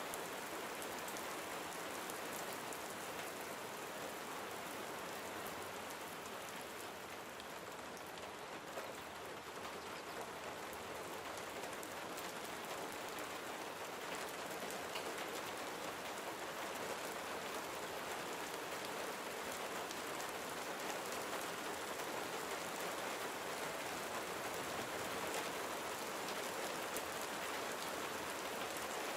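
Gentle rain falling steadily, a soft even hiss with many small drops pattering on surfaces.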